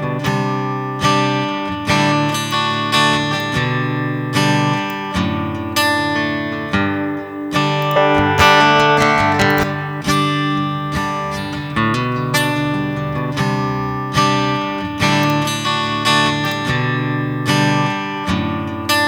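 Acoustic guitar loop of picked and strummed chords, a fresh chord about every second, each left ringing, played back through a Line 6 HX Stomp XL loaded with acoustic guitar impulse responses.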